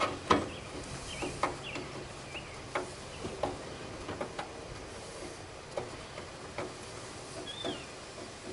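Scattered light clicks and taps of plastic and metal parts being handled as the tractor hood's grille is fitted, with a few faint high chirps in between.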